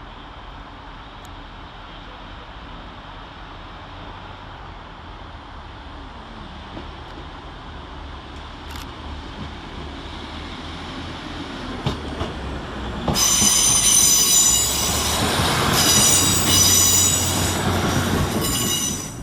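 A pair of Class 175 diesel multiple units arriving round a curve. The rumble of engines and wheels builds steadily, then about two-thirds of the way in the wheel flanges start to squeal in several high ringing tones. The sound cuts off suddenly near the end.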